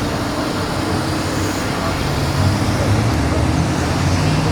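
Car engine running close by, a low hum that rises in pitch and gets louder about two seconds in, over general traffic and crowd noise.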